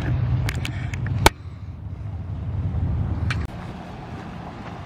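Street sounds with a low car-engine rumble, broken by a sharp click about a second in. The rumble comes back, then stops suddenly at about three and a half seconds, leaving a quieter steady street background.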